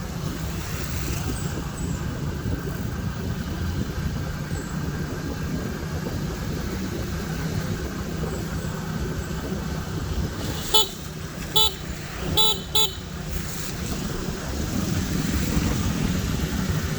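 Steady rumble of a vehicle running along a road, with a vehicle horn beeping four short times about two-thirds of the way through.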